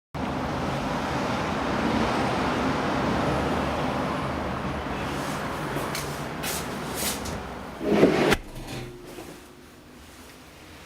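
Road traffic: a steady rush of passing vehicles, swelling to its loudest about eight seconds in and cutting off sharply, leaving a quieter background.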